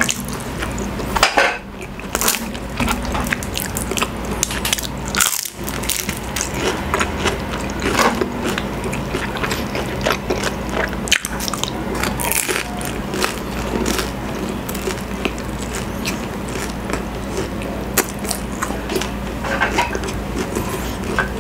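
Close-miked eating: bites and crunchy chewing of a fried spring roll (lumpiang Shanghai), many small crackling crunches throughout, over a steady low hum.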